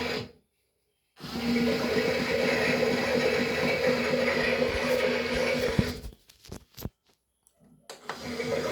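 A toy washing machine's small electric motor runs with a steady hum and water churning. It stops briefly just after the start, runs again, then around six seconds gives a few clicks and stops before starting up again near the end.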